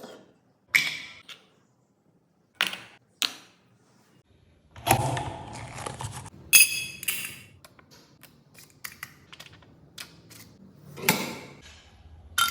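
Scattered clicks, clunks and short scrapes of hard plastic and metal parts being handled and pressed while making photo fridge magnets with a magnet press: a few single knocks, then a longer scrape, then a run of small quick clicks.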